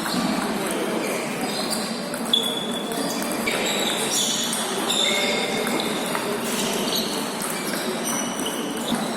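Table tennis rally: a celluloid-type ball clicking off paddles and the table, with short pings and one sharp crack about two seconds in, over the murmur of a busy playing hall with other tables in play.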